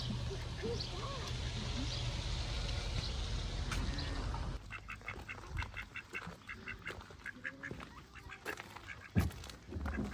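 Ducks quacking in quick runs of short calls. Before that, about halfway through, a low steady hum with faint bird calls cuts off abruptly.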